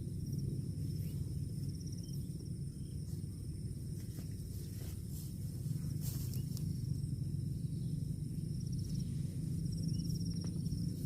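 Outdoor ambience: insects trilling steadily at a high pitch, with short pulsing phrases now and then, over a constant low rumbling noise.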